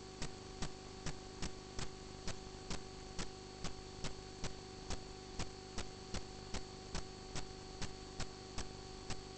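Regular ticking, a little over two ticks a second, over a steady electrical hum and hiss.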